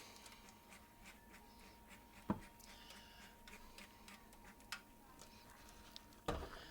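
A quiet room with a few light knocks and clicks. The loudest, a dull knock, comes about two seconds in, and another comes near the end.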